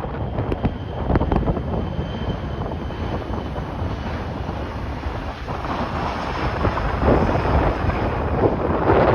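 Strong gusty wind buffeting the microphone, a dense rumbling rush that grows louder in the last few seconds.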